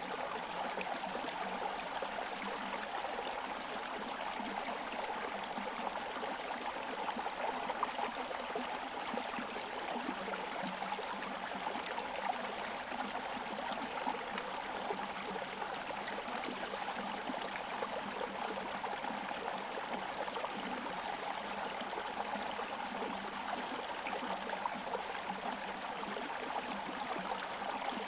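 Small forest stream running and gurgling steadily between partly frozen, icy banks.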